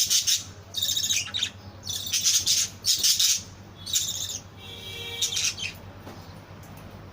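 Lovebirds chattering in quick bursts of high, shrill chirps, dying down about five and a half seconds in.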